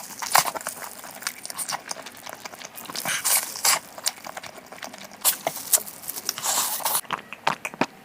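Close-miked eating sounds: chewing and smacking, heard as a string of irregular sharp clicks with a few longer noisy bursts.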